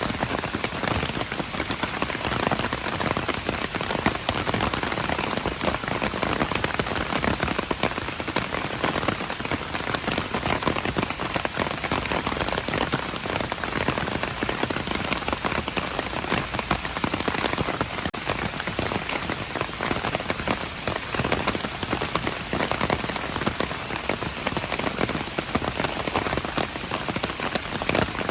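Steady rain falling on surfaces: a dense, even hiss with countless individual drops pattering through it and no let-up.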